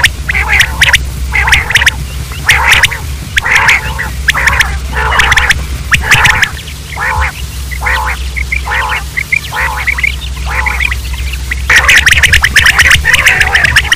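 Quail calling in a string of short repeated calls, about one to two a second, breaking into a dense, rapid run of calls near the end, over a steady low hum.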